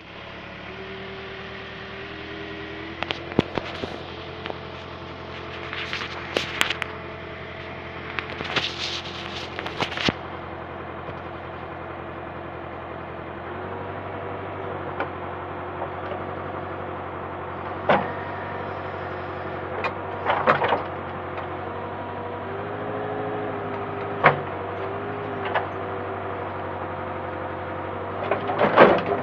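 Backhoe's diesel engine running steadily, stepping up in speed about halfway through, with a wavering hydraulic whine that bends up and down under load. Scattered sharp clanks and knocks, a dozen or so, stand out above the engine.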